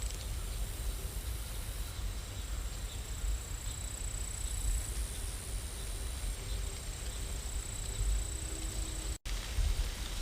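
Steady rain ambience: an even hiss of rain with a low rumble beneath it, cutting out for an instant near the end.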